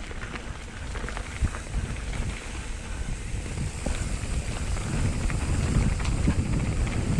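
Wind buffeting the microphone on a moving mountain bike, with scattered clicks and rattles from the bike over rough ground. The rumble grows louder in the second half.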